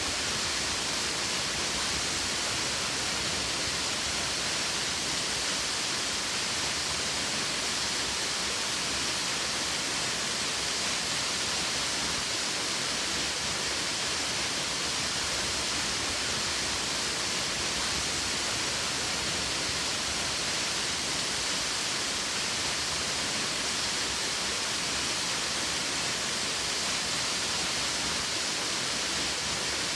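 Waterfall: a steady rush of falling water, even and unchanging, with a bright hiss.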